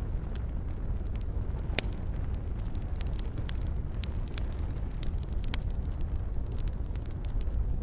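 Wood fire in a fireplace crackling, with many small pops scattered over a steady low rumble of the flames and one sharper pop about two seconds in.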